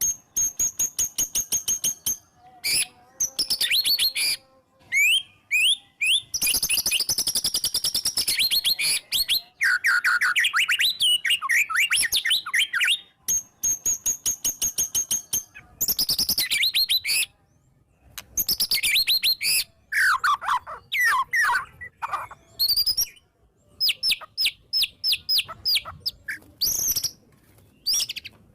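White-rumped shama (murai batu) in full, excited song, its phrases packed with mimicked notes of other birds. It sings a fast, varied run of rapid repeated high chips, trills and sweeping whistles, each phrase broken off by a brief pause.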